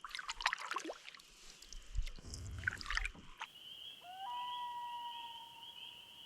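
A common loon's wail: one long call that rises at the start and then holds a steady note, beginning about four seconds in. Behind it runs a high pulsing evening chorus. Before the call there are scattered knocks and a low rumble.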